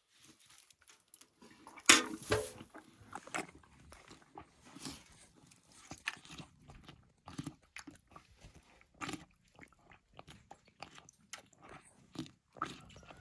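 An animal chewing and crunching its feed: irregular crisp crunches, the sharpest about two seconds in.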